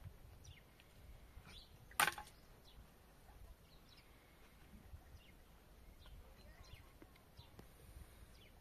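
Faint, scattered short chirps of small birds, with one sharp click or knock about two seconds in.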